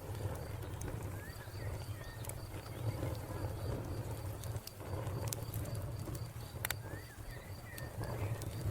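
Wood fire crackling and popping over a low rumble. A cricket chirps in a steady, regular high pulse, and a bird gives a few short calls about a second in and again near the end.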